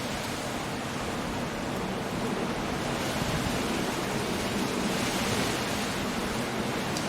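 Stormy sea breaking on a rocky shore, with wind, heard as a steady rushing wash of noise that swells a little a few seconds in.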